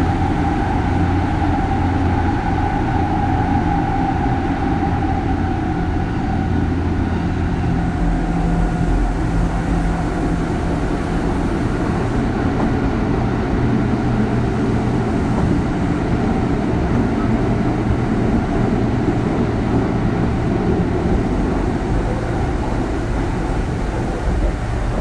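Running sound inside the Kintetsu 3200 series motor car: the early Mitsubishi GTO VVVF inverter and traction motors over steady wheel and rail rumble. A drive tone slowly falls in pitch over the first several seconds, then the train runs on steadily.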